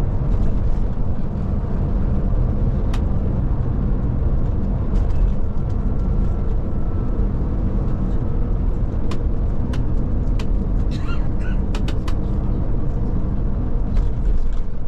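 Scania Touring coach driving along, its engine and road noise making a steady low rumble inside the cabin. A few sharp clicks or rattles come through, several in quick succession about two-thirds of the way in.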